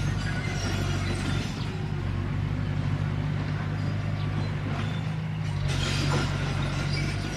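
Komatsu D21P crawler bulldozer's diesel engine running steadily under load, with the squeaking and clanking of its steel tracks, busiest near the end.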